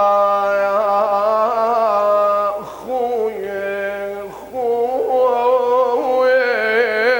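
A man chanting an Iraqi funeral lament (nai) in long, wavering melismatic held notes. The phrases break off briefly about two and a half seconds in and again around four and a half seconds.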